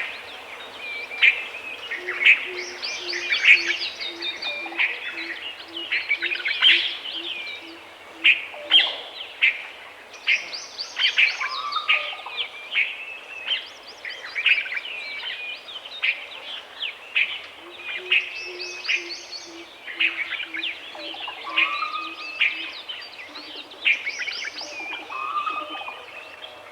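Several woodland birds chirping, trilling and calling over one another. Twice, a low hooting note repeats steadily at about two a second for several seconds.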